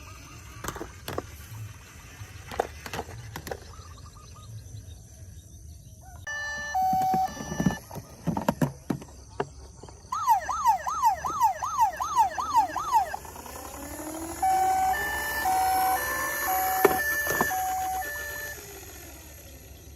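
Toy emergency-vehicle sirens: a two-tone hi-lo siren, then a fast rising-and-falling wail for about three seconds, then the two-tone siren again. Scattered clicks and knocks fill the first few seconds.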